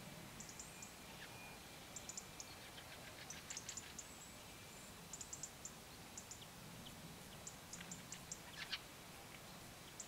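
Small birds chirping: irregular runs of short, high notes, a few at a time, over a faint low background rumble.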